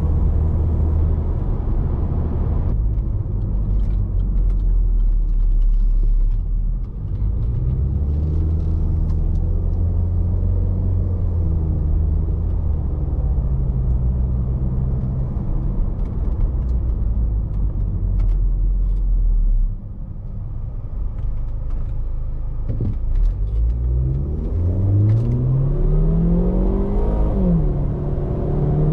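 2011 Range Rover Evoque's 2.0-litre turbocharged petrol four-cylinder heard from inside the cabin: a steady engine and road rumble while driving, then the engine note rising steeply under hard acceleration. The rise drops sharply at an automatic upshift near the end and starts climbing again.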